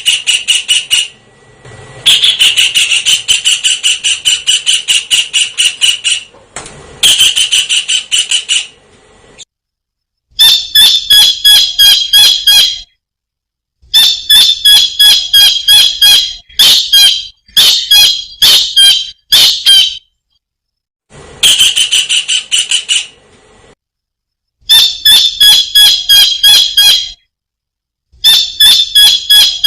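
Kingfisher (tengkek udang) calling in fast bursts of sharp, high, repeated notes, about five a second. The bouts last two to three seconds, with brief pauses between them.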